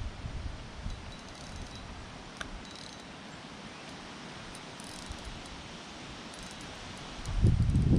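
Wind buffeting the microphone in gusts: it eases off in the middle, leaving a few faint light clicks, then comes back strongly near the end.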